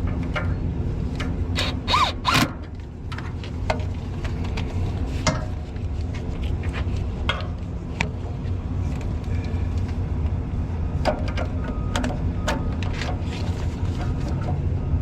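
Hand tools clicking, knocking and scraping on metal parts, with a few sharper clicks about two seconds in, over a steady low hum.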